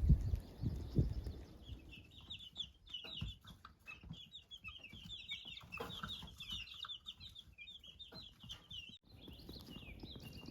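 Baby chicks peeping: a dense run of rapid, short, high chirps, with a couple of low thumps just before they start.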